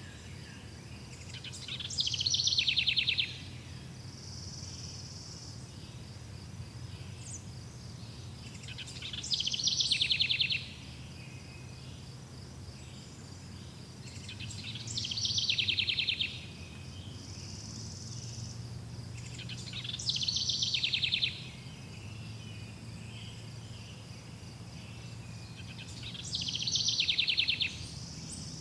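Forest ambience: a songbird repeats the same short trilled song five times, about every six seconds, over steady insect trilling and a low steady hum.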